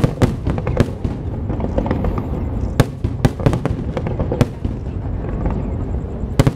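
Fireworks bursting, a string of sharp bangs at uneven intervals over a steady low rumble.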